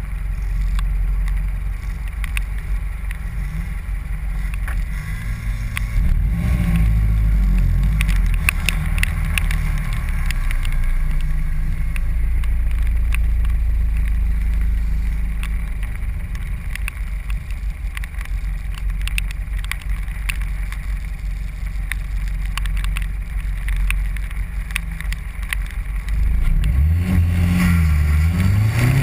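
Mazdaspeed 3's turbocharged 2.3-litre four-cylinder engine driven hard through an autocross course, revving up and easing off over and over, with quick rises and falls in pitch near the end.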